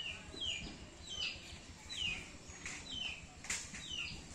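A bird calling over and over, a short falling chirp about every half second, with a couple of sharp clicks in the middle.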